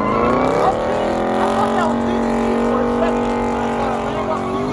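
Car engine revved up over the first second, then held at steady high revs, as during a donut.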